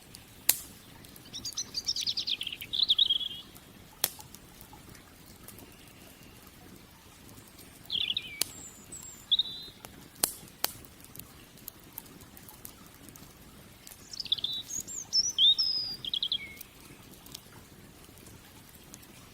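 Wood campfire giving off a few sharp crackling pops, while a songbird sings three short bursts of rapid chirping song.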